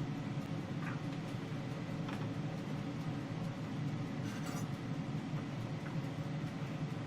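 A few faint, light clinks, about one, two and four and a half seconds in, over a steady low background hum.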